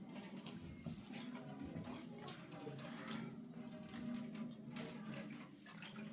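Water running and splashing, as in washing.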